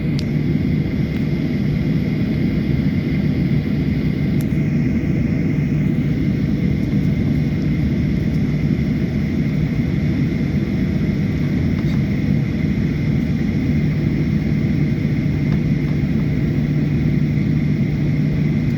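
Boeing 737-800's CFM56 jet engines running steadily at low power: an even rumble with a constant low hum and a faint high whine that holds steady.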